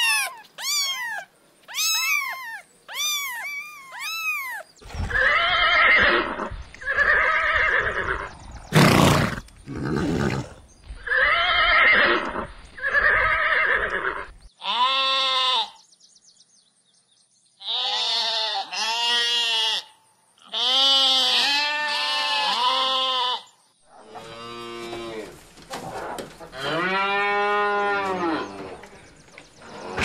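A run of animal calls: short high meows about once a second at the start, louder, rougher calls in the middle, then a series of wavering sheep bleats through the second half.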